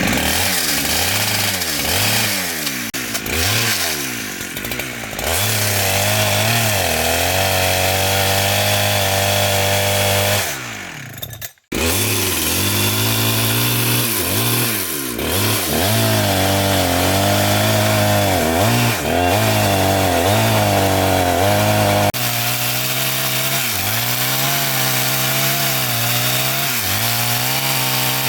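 Chainsaw cutting through large pieces of wood, its engine pitch dipping and recovering again and again as the chain bites in. The sound drops out briefly near the middle and then carries on.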